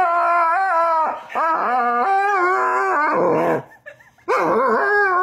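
Dog howling in three long, wavering howls, each rising and falling in pitch, with short breaks between them.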